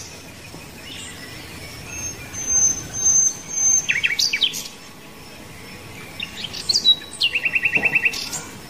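Small birds chirping: a thin, high whistle held for about a second and a half, a few quick chirps in the middle, and a rapid trill near the end.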